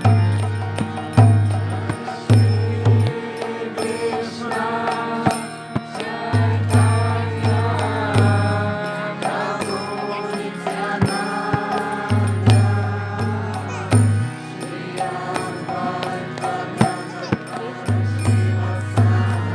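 Kirtan: sung devotional chanting of a mantra, with a steady accompaniment, bright hand-cymbal-like clicks and repeated deep drum strokes in groups.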